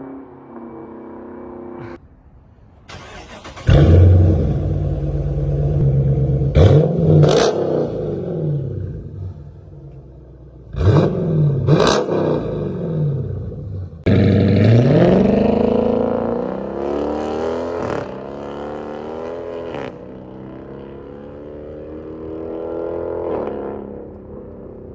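Car engine with an aftermarket exhaust accelerating hard: after a quieter stretch it gets loud about four seconds in, and its pitch drops and climbs again several times as it shifts up, then settles to a steadier, lower drone.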